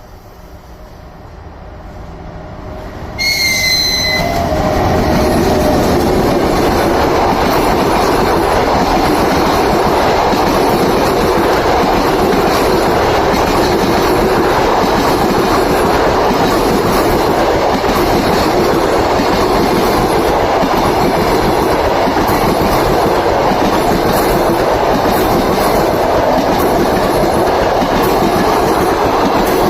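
An EP1M electric locomotive hauling a passenger train past at speed. It approaches with a rising rumble, and a brief high tone sounds about three seconds in as the locomotive reaches the microphone. Then the coaches pass loudly and steadily, their wheels running over the rails.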